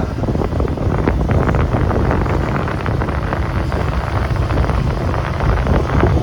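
Heavy wind buffeting on the microphone during a motorcycle ride, over the rumble of the bike and road.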